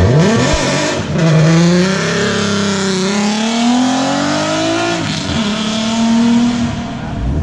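Nissan Z car with an aftermarket exhaust being revved hard while parked: a quick blip, then a slow climb in revs that drops suddenly about five seconds in, a shorter held rev, and the revs falling away near the end.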